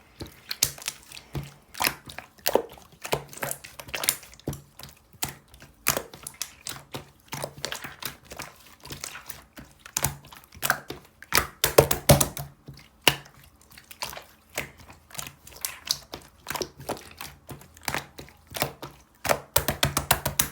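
Irregular close-up taps, clicks and light crinkling of small objects being handled on a hard surface, with a quick run of clicks near the end.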